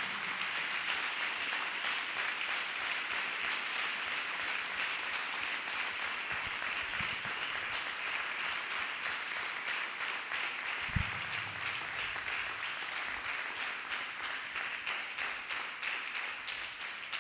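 Congregation applauding steadily, dying away near the end, with a single low thump about eleven seconds in.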